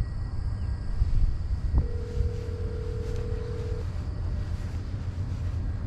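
Telephone ringback tone heard through a phone's speaker: one steady two-second ring about two seconds in, as the outgoing call rings at the other end. It plays over a steady low rumble.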